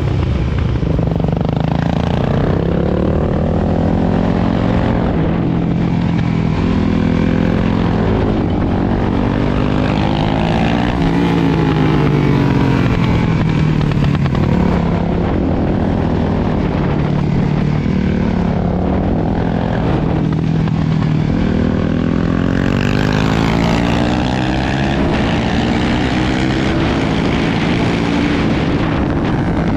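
Suzuki DR-Z400SM supermoto's single-cylinder four-stroke engine on track, its pitch climbing as the bike accelerates down each short straight and dropping as the rider rolls off into the corners, again and again. A rush of wind runs under the engine.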